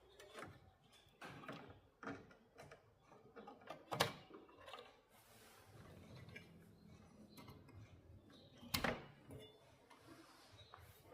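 Scattered small clicks and taps of tools and parts being handled during the amplifier's repair work, with two sharper knocks, one about four seconds in and one near the end.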